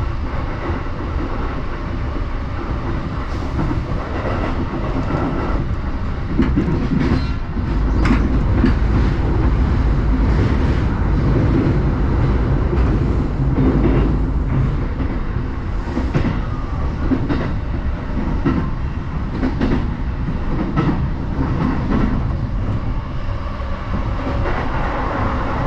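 Electric commuter train running at speed, heard from inside the passenger car: a steady rumble of wheels on rail with repeated clacks over rail joints, louder for several seconds about a third of the way in.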